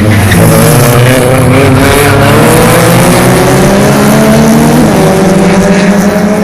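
Touring race car engine accelerating hard, its pitch climbing steadily, with a sudden drop at an upshift about five seconds in before it climbs again.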